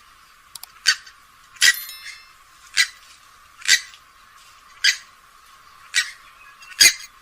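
Grey-headed swamphen calling: short, repeated calls about once a second, seven in all.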